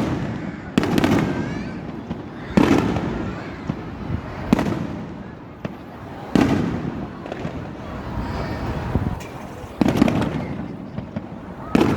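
Aerial firework shells bursting, about six loud booms roughly two seconds apart, each trailing off in a rumbling echo.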